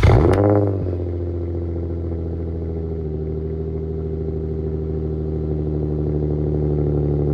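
Infiniti G35's VQ35DE V6 starting up through a freshly fitted Tomei exhaust: the revs flare and drop in the first second, then it settles into a steady idle.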